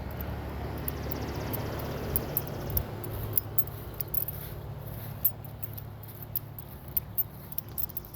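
Keys jingling in scattered light clinks over a steady low hum.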